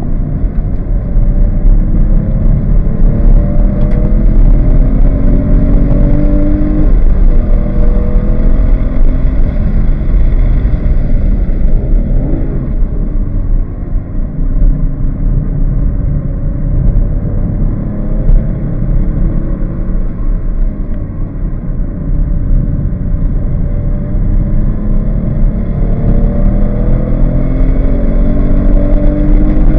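Porsche 911 GT3 flat-six engine heard from inside the cabin, running in third gear through corners. Over the last few seconds the revs climb steadily under hard acceleration.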